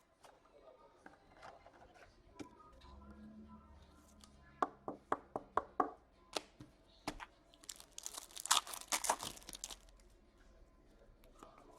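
A quick run of about six sharp clicks, then a burst of crinkling and tearing as a hockey card pack's wrapper is ripped open.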